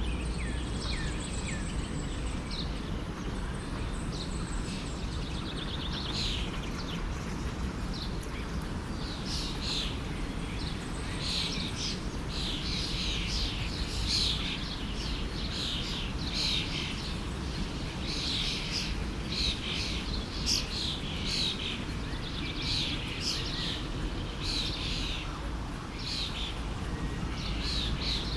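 Small birds chirping and calling over the steady rush of a flowing stream, the chirps getting busier about a third of the way in.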